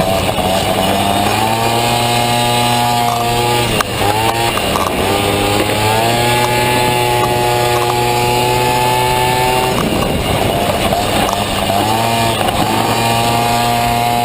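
Honda Dio 50cc two-stroke scooter engine in a Motocompo, revving hard under acceleration. The revs climb and hold, drop sharply about four seconds in and again near ten seconds as the throttle is rolled off, then pick up again each time.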